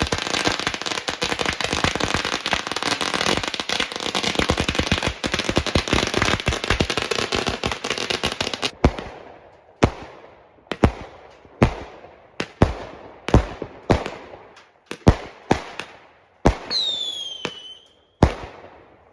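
Firecrackers crackling in a dense, rapid volley for about nine seconds, then breaking into separate sharp bangs about once a second. A short whistle falling in pitch sounds among the bangs near the end.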